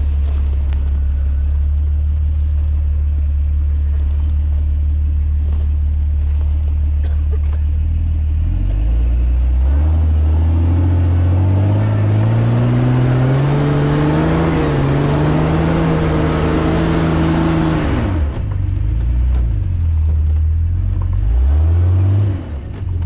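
An off-road vehicle's engine idling low and steady, then revving up over several seconds and held high before dropping off sharply; it revs briefly once more near the end.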